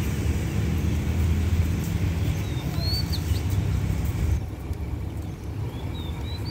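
Diesel-hauled passenger train pulling away, its low engine rumble slowly fading as it recedes. Birds chirp briefly about three seconds in and again near the end.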